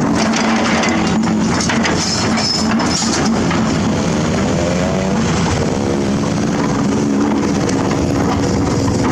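Excavator diesel engine running steadily while it works, its pitch wavering up and down as the load changes, with some clatter in the first few seconds.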